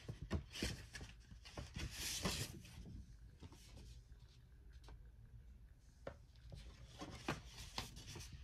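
Paper rustling and crinkling as a receipt and repair contract are handled and unfolded, busiest in the first three seconds, with a few sharper crinkles near the end.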